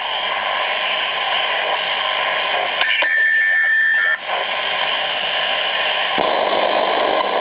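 Grundig Yachtboy 80 shortwave radio giving out static hiss between stations. The noise changes abruptly a few times, and a steady whistle tone sounds for about a second near the middle.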